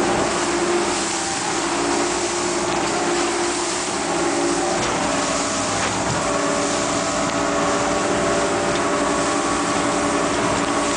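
Motorboat engine running steadily under way, with a constant rush of wind and water noise.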